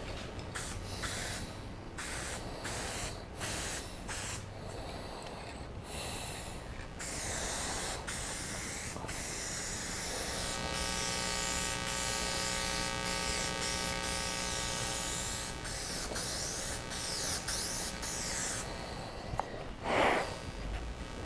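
Aerosol spray paint can hissing as paint is sprayed onto a car bumper, in passes with short breaks between them, and a faint steady whine through the middle. A brief louder sound comes near the end.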